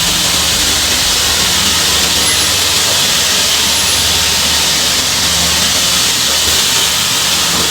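Steady hissing machine noise with a low hum underneath, from an automatic picture-frame moulding cutting saw and its equipment running.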